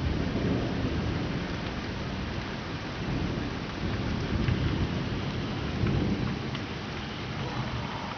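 Rain falling steadily with thunder rumbling low underneath, swelling and fading a few times.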